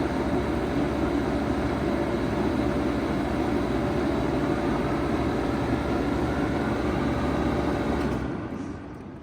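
2007 Bard 5-ton wall-hung heat pump running in heat mode with a steady hum, then shutting down about eight seconds in: the low rumble cuts off abruptly and the rest of the sound falls away.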